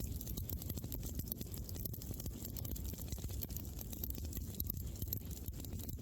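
Campfire wood burning, with frequent small crackles and pops over a low steady rumble.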